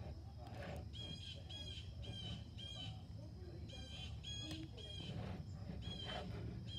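A bird calling outdoors: short, high, identical notes repeated quickly in runs of two to four, over a steady low background hum.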